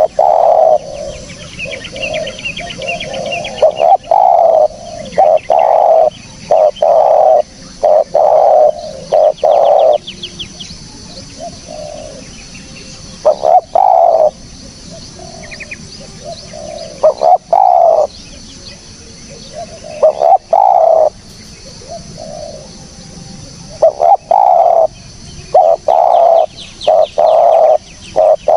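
Spotted dove cooing: loud, low coo notes repeated in phrases of two to four, with short pauses between the phrases.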